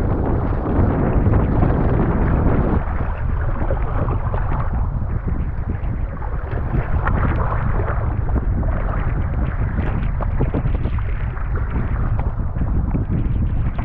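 Strong wind buffeting the microphone over water sloshing and splashing around a kayak in rough sea; the deep wind rumble eases slightly about three seconds in.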